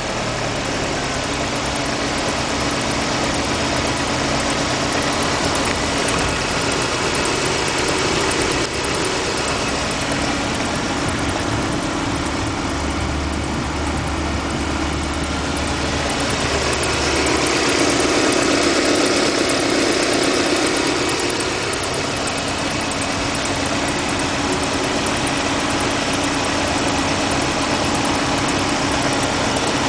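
VAZ-2112 engine idling with a whistle from the timing belt drive. It grows louder for a few seconds around the middle.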